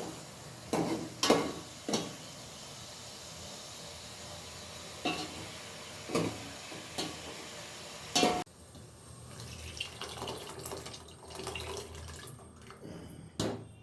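Kitchen utensils and cookware clinking and knocking several times over a steady hiss. The hiss cuts off suddenly about eight seconds in, and lighter clatter follows.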